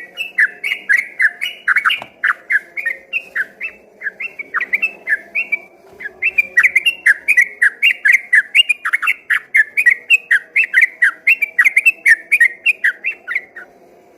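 Sooty-headed bulbul (trucukan) singing a long, rapid run of whistled notes, about four a second, with a brief pause partway and stopping shortly before the end.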